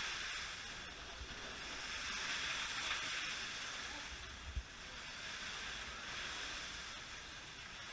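Several slot cars running around the track, their small electric motors and gears making a steady high whir. There is a single short knock about four and a half seconds in.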